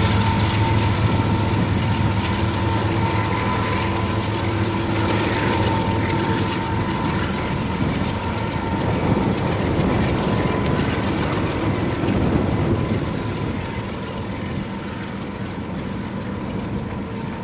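Union Pacific autorack freight train rolling past, with a steady diesel locomotive engine hum over the rumble of the cars on the rails. The sound slowly fades as the train moves away.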